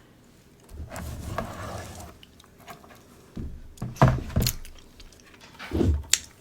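Mukbang eating sounds: king crab legs being handled and bitten, with a few sharp clicks and thumps, the loudest about four seconds in and another near six seconds.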